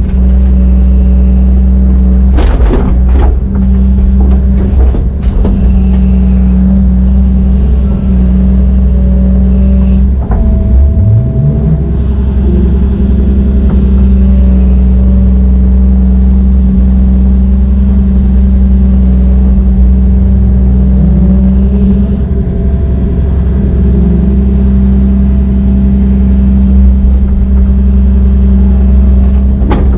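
Heavy diesel machinery running loudly with a steady low drone. Twice the pitch rises, about ten and twenty seconds in, and a few knocks sound two to five seconds in.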